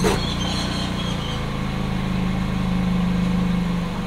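Toyota Celica's four-cylinder engine idling steadily as the car creeps slowly backward, with a short knock right at the start.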